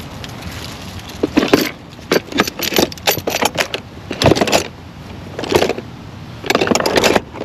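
Hand tools and engine-bay parts being handled, a run of sharp clicks and rattles in clusters, over a steady background hum.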